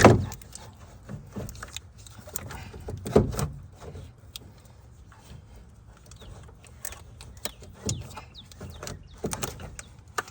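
Scattered metal clunks, knocks and scrapes as an alternator is worked into place in a car's engine bay, with louder knocks at the start and about three seconds in.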